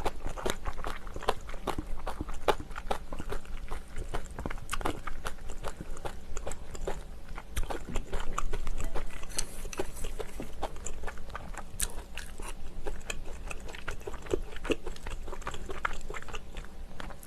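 Close-miked mukbang eating sounds: chewing and crunching of food with wet mouth clicks and smacks, going on steadily with a slightly louder stretch about halfway through.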